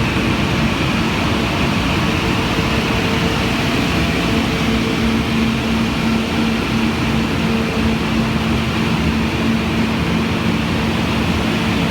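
Blower of a SIRCA blower-type cacao dryer running steadily: a loud, even rush of air with a steady hum.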